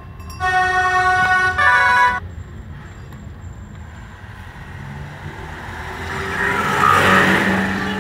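A vehicle horn sounds twice in quick succession, a steady multi-note blast, then road noise swells as a vehicle passes close by about seven seconds in.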